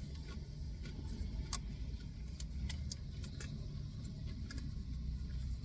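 Steady low rumble, like a car engine idling, with a few faint scattered clicks.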